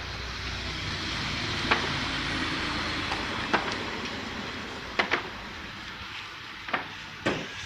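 Automatic car wash working over the car, heard from inside the cabin: a steady rushing of spray and brushes with a low rumble, easing off slightly, and a few sharp knocks against the body.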